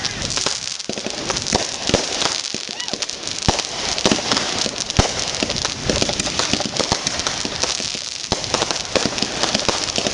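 Fireworks going off in a rapid, irregular string of sharp bangs and crackles.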